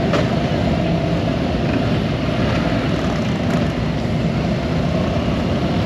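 Several police motorcycle engines running together, a steady loud rumble as the motor officers ride out.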